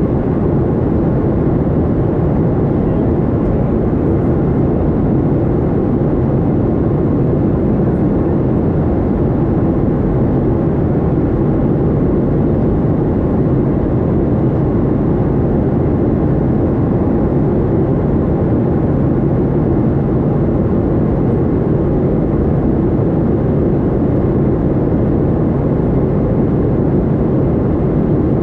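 A Boeing 737-800 airliner's steady low roar of engines and airflow, unchanging in pitch and level.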